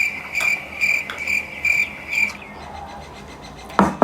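A chirping insect, a high-pitched trill pulsing about two or three times a second, stops about halfway through. Near the end come two sharp clinks of a utensil against a dish.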